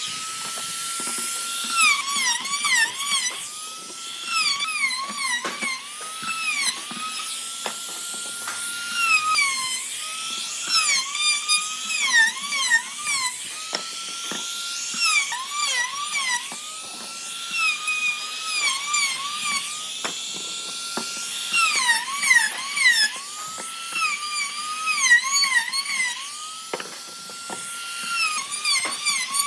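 High-speed electric power tool whining, its pitch sagging again and again as it bites into the work and climbing back each time it eases off.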